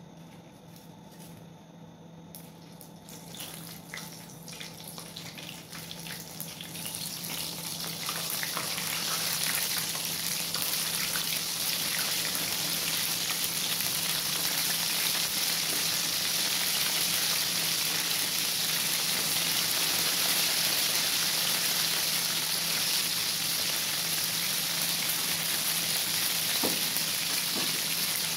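Coated chicken wings being deep-fried in a pan of hot oil: a few crackles as the first pieces go in, then the sizzle builds over several seconds as more are added and settles into a steady, loud frying hiss.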